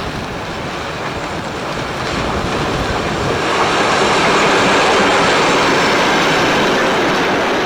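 Alco diesel locomotive 844 and its train passing, a dense rumble of engine and wheels that swells to a peak around the middle and eases a little near the end.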